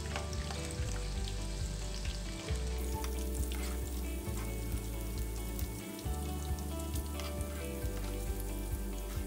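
Breaded paneer nuggets shallow-frying in hot oil, a steady sizzle with small crackles, as a spoon turns them in the pan.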